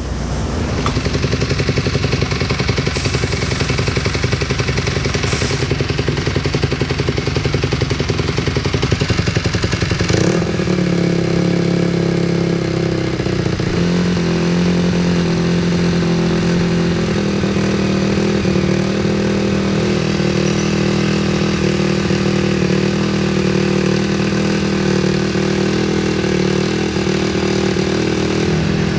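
Motocross dirt bike engine running and revving. About ten seconds in, the sound changes to a steadier held engine note whose pitch shifts in steps.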